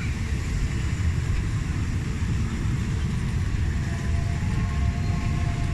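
Steady low rumble of a train rolling past, with faint steady tones coming in about four seconds in.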